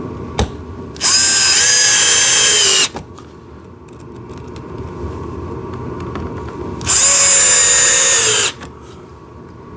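A power drill driving small screws in two runs of about two seconds and a second and a half, its whine dropping slightly in pitch at the end of each. A sharp click comes about half a second in.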